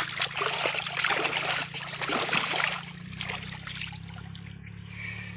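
Muddy water splashing and sloshing as hands dig and grope in a flooded hole for catfish, busiest in the first three seconds and then quieter, over a low steady hum.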